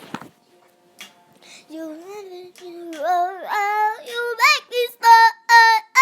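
A high, childlike girl's voice singing unaccompanied: after a click at the start, the singing begins about two seconds in, climbs in pitch through the phrase and ends in short, high held notes.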